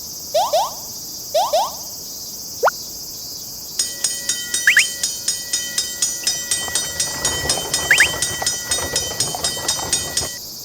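Cartoon sound effects: short rising chirps in pairs, then a single rising whistle, followed by a railroad crossing warning bell ringing in a fast, even rhythm of about four strikes a second over a steady high hiss.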